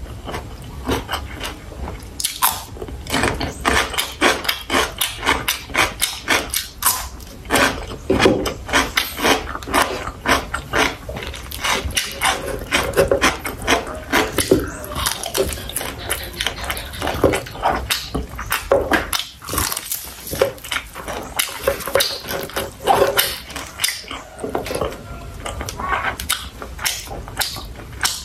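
A person chewing and biting food close to the microphone, with many quick, irregular mouth clicks and smacks.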